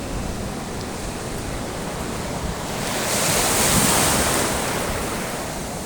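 Sea waves washing on the shore, one wave swelling and breaking about three to four seconds in, over a steady rush of surf and wind on the microphone.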